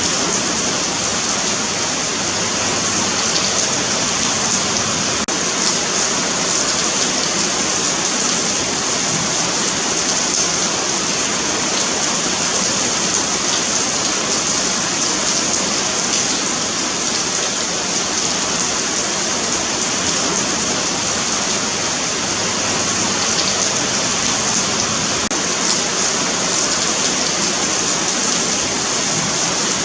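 Steady rain falling on a pavement sidewalk: a continuous hiss of drops with fine patter and no breaks.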